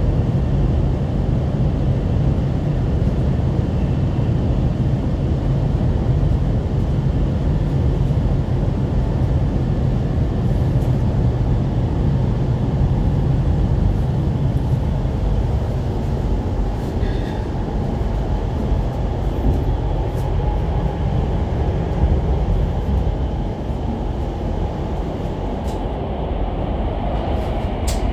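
GTX-A express train running, heard from inside the passenger car: a steady low rumble with a rushing noise over it, and a few faint high tones.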